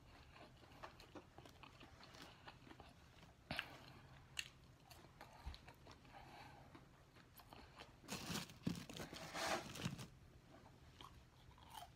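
Close-miked chewing of McDonald's French fries: soft crunching and small wet mouth clicks, with a louder stretch of crunching and rustling about eight to ten seconds in.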